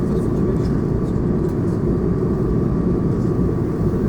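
Steady cabin noise of an Airbus A220 with its Pratt & Whitney PW1500G engines running, heard from inside the cabin: an even, deep roar with a thin steady high tone over it.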